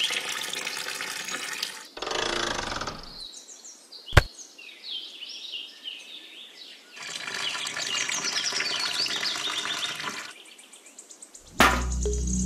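Wet cement pouring and splashing out of a small tin-can mixer drum, with birds chirping throughout. A sharp click about four seconds in, and music starts near the end.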